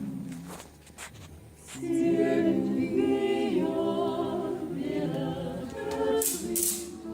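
A small group of voices singing a cappella in close harmony, like a choir or barbershop quartet, on long held chords. There is a short break with a few clicks near the start, then the singing comes back louder.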